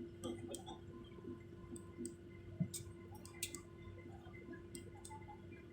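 Quiet airliner cabin ambience after landing: a steady low hum with scattered sharp clicks and taps, the loudest about two and a half and three and a half seconds in.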